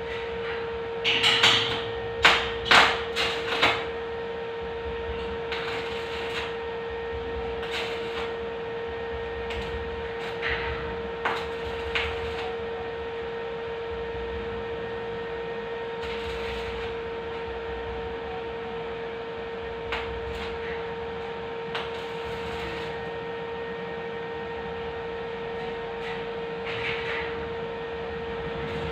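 Hammer knocking on hollow steel tube: a quick run of about five hard strikes, then scattered lighter taps, over a steady hum.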